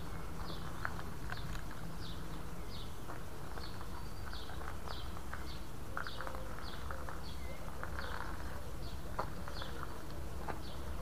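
A small bird chirping over and over, short high chirps at about two a second, with scattered light clicks and a steady low rumble underneath.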